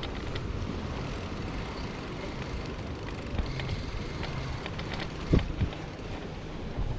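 A bicycle riding along, with steady low rumble from tyres and wind on the microphone and a few light clicks and rattles; a heavier knock about five and a half seconds in.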